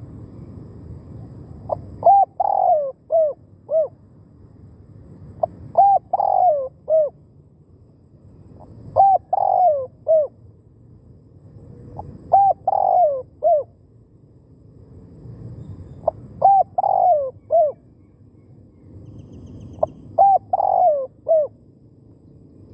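Spotted dove cooing: the same phrase of several coos, repeated six times, about every three and a half seconds. It is a decoy dove calling to lure wild doves.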